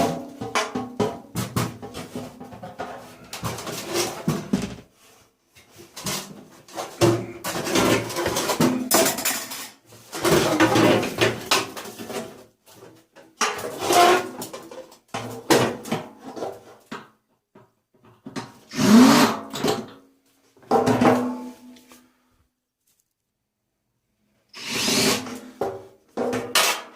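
Metal parts of a tumble dryer being pulled apart and handled: irregular bursts of clattering and scraping sheet steel, broken by short pauses, with a gap of about two seconds near the end.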